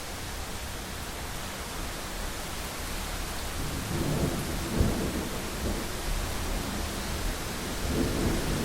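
Steady heavy rain on a window glass, with rolling thunder building about three and a half seconds in, a sharp crack near the middle and another rumble near the end.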